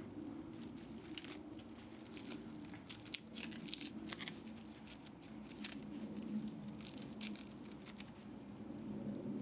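Irregular small clicks, scrapes and crinkling from hand work on an electric pump motor being taken apart for scrap metal, over a steady low hum.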